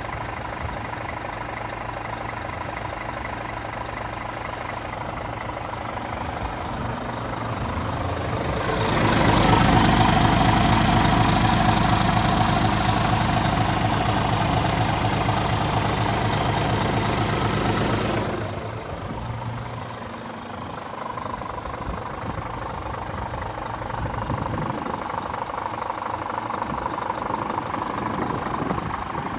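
Scania G450 truck's 13-litre inline-six diesel idling. About nine seconds in the engine grows much louder and stays there for about nine seconds, then drops back to idle.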